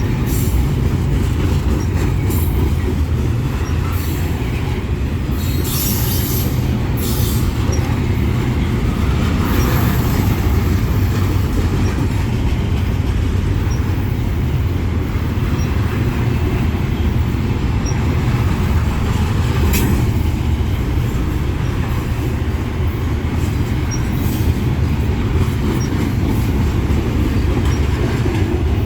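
Freight train cars rolling past with a loud, steady low rumble and wheel-on-rail clatter. Brief high-pitched wheel squeals come a few seconds in, and there are a few sharp clanks later on.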